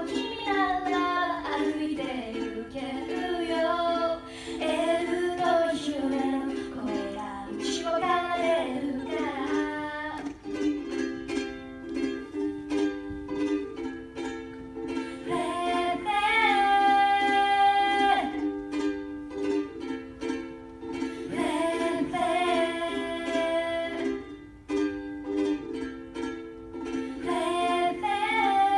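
Woman singing a song to her own strummed ukulele. The voice drops out about ten seconds in for a stretch of strumming alone, and long held notes come in over the strumming later.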